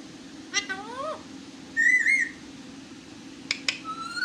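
Pet parrot whistling: a rising whistle, then a louder wavering whistle, then another rising whistle, with a few sharp clicks in between.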